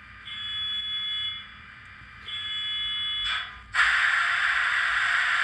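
Start-up sequence from the ESU LokSound sound decoder in an N-scale SD70M model locomotive, played through its tiny speaker. Twice, a buzzer-like tone sounds for about a second, then comes a short burst of noise, and at about four seconds in the loud, steady rush of the diesel engine sound starting up.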